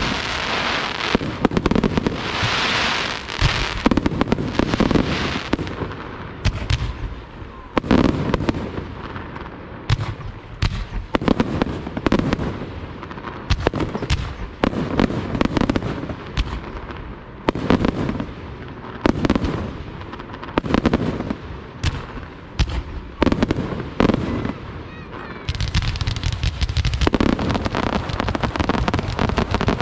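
Aerial fireworks display: shells bursting one after another in dense, irregular bangs, with crackling between them. Near the end a steady rushing noise sets in under the bangs.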